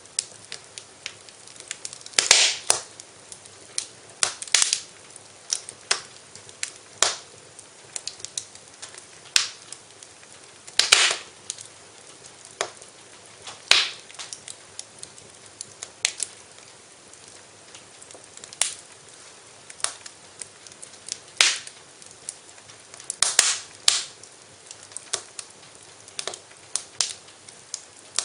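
Wood fire in a fireplace crackling: irregular sharp pops and snaps, some much louder than others, over a faint steady hiss.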